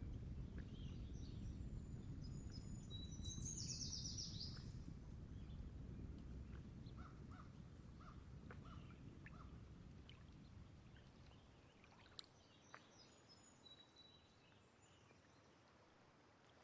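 Faint outdoor nature ambience: a low, even rumble of distant ocean that fades gradually, with small birds chirping. A quick bird trill comes about four seconds in and a run of short chirps follows a few seconds later.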